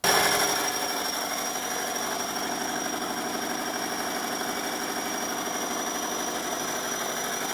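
Lister Petter diesel engine of a 20 kW generator set running steadily, with a thin steady high-pitched whine above it. The owner thinks one cylinder is down and suspects the injector adjustment.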